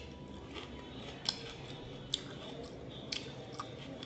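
Close-miked chewing of food eaten by hand, soft and wet, with a few sharp mouth clicks and crisp snaps.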